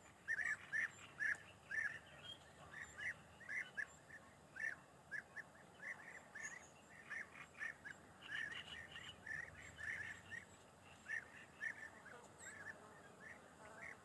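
Small birds chirping: a run of short, quick chirps, about two or three a second, over faint background hiss.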